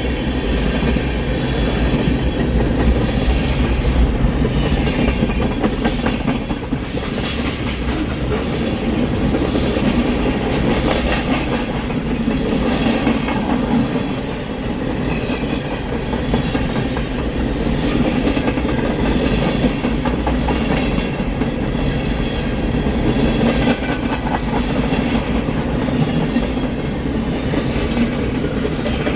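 Cars of a mixed freight train rolling past, steel wheels clacking over rail joints over a steady, loud rumble.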